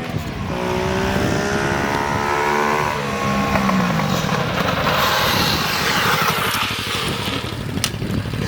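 Small dirt bike engine revving up, its pitch climbing for a couple of seconds, then falling away about three seconds in, followed by a steady rushing noise.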